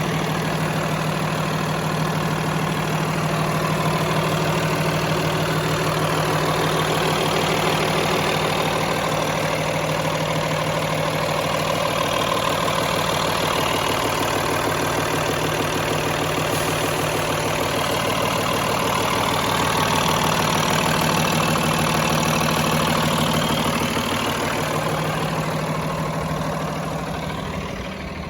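2010 Freightliner M2-106 dump truck's diesel engine idling steadily, dipping slightly in loudness near the end.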